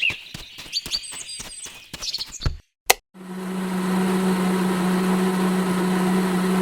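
Quick irregular clicks and knocks mixed with bird-like chirps. After a brief silence about three seconds in, a small motor runs with a steady low hum.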